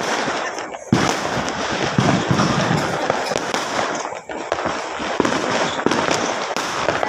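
Fireworks going off in a dense, continuous barrage of crackling bangs and pops, with brief lulls about a second in and about four seconds in.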